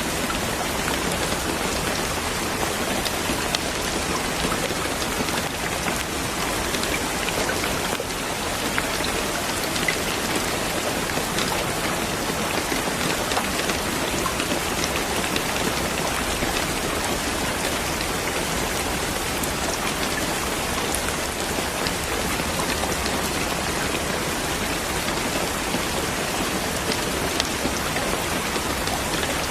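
Steady rain falling: an even hiss with many small, sharp drop taps on a surface.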